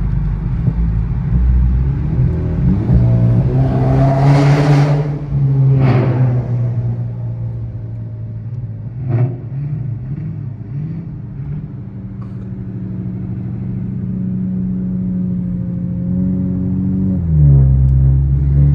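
Car engine and exhaust revving up hard about three to six seconds in, with loud bursts of noise. It then settles into a steady drone while cruising, and the pitch drops near the end as the car eases off or shifts.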